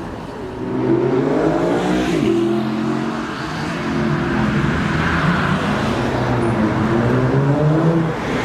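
Jaguar F-Type sports car engine accelerating hard. The pitch climbs for about two seconds, drops suddenly as it shifts up, then climbs slowly again to another shift near the end.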